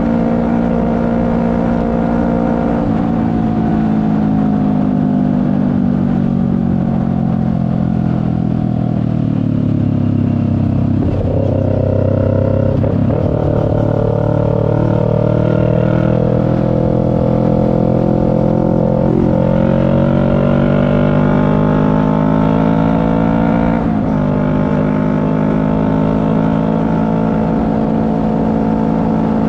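CFMoto 400NK parallel-twin motorcycle engine on the move. It holds a steady note, falls in pitch as the bike slows, and jumps up about ten seconds in, as on a downshift. It then climbs steadily in pitch as it accelerates, drops at a gear change near the end, and settles to a steady cruise, with wind rushing under it.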